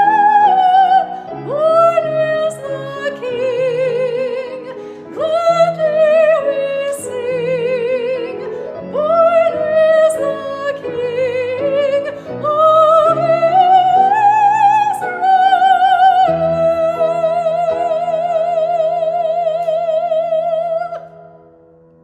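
A high female voice, soprano, singing in a classical, operatic style with wide vibrato over instrumental accompaniment. The phrases end on a long held high note that stops about 21 seconds in.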